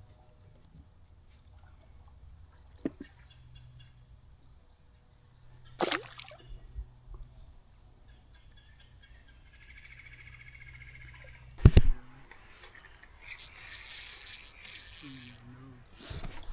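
Creek-side insects, crickets, keeping up a steady high drone, broken by a few sharp knocks on the kayak, the loudest about twelve seconds in. A short stretch of splashing water follows near the end.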